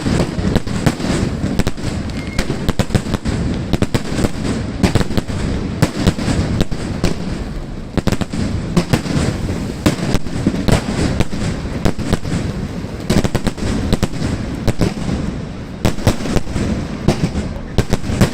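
Fireworks going off: a dense, irregular run of cracks and bangs over a continuous rumble, with no pause.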